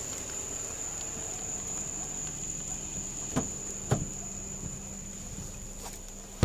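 Crickets chirring in a steady high-pitched chorus, with two short knocks about half a second apart a little past the middle.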